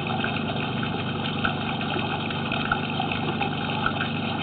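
Water running steadily into the sewer line during the camera inspection, over a steady motor hum.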